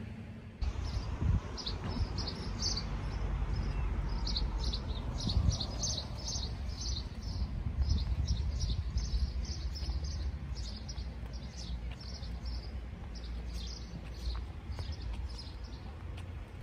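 Small birds chirping in a rapid run of short, high notes, several a second, over a steady low rumble with a couple of soft thumps.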